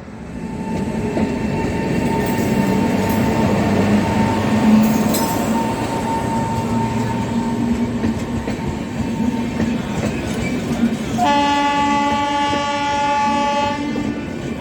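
WAP-7 electric locomotive and its train running, the noise building over the first second or two and staying loud. About eleven seconds in, the locomotive's horn sounds one long blast of roughly two and a half seconds.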